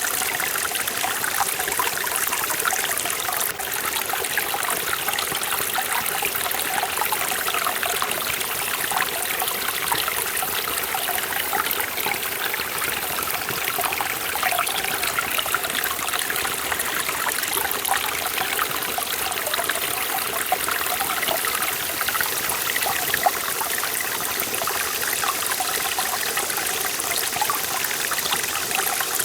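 Forest valley stream flowing steadily over rocks, a continuous babbling and trickling rush of water.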